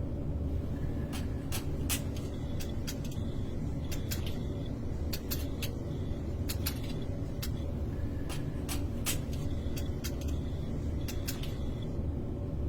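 Irregular sharp metallic taps, roughly one to three a second, some ringing briefly, over a steady low rumble: hammer work on a car's sheet-metal body panel.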